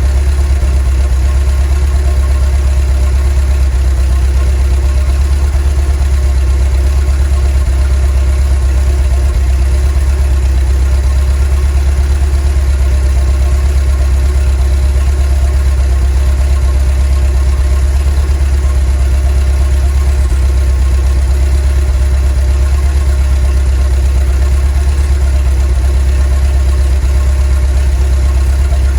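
VW T3 bus's 2.1-litre WBX water-cooled flat-four engine running steadily at an even, unchanging speed, a constant low-pitched drone.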